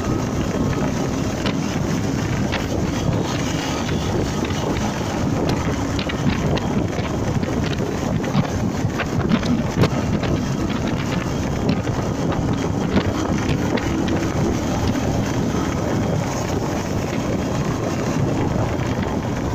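Honda MegaPro Primus single-cylinder motorcycle engine running steadily while riding, mixed with heavy wind buffeting on the microphone and a few light ticks and knocks.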